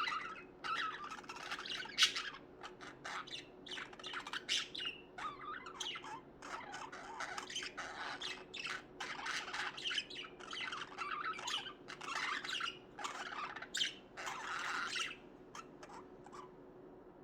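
Budgerigars chirping and chattering in quick, busy bursts with sharper squawks mixed in, dying away near the end.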